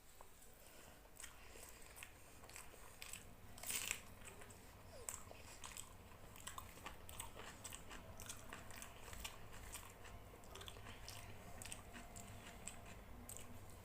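Quiet, close-up chewing of rice and chicken curry, with frequent small wet mouth clicks and smacks. A louder bite or crunch comes about four seconds in.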